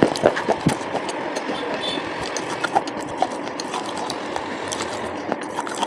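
Mouth chewing coloured slate pencil sticks: a few sharp crunching bites in the first second, then steady dense crackling as the pieces are ground between the teeth.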